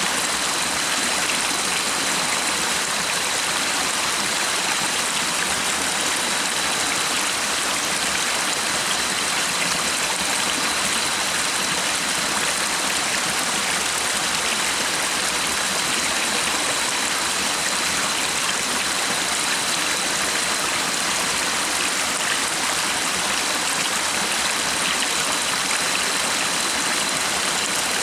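Stream water flowing in a steady, even rush, with a faint steady high tone running underneath.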